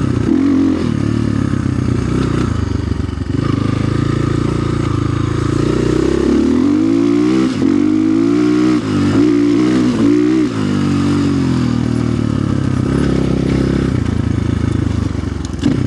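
Orion RXB250XL 250 cc dirt bike engine running while being ridden, its pitch rising and falling several times in quick revs around the middle.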